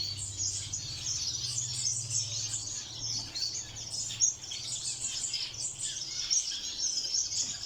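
Many small finches chirping and twittering at once in a mixed aviary, a dense overlapping chatter of high calls.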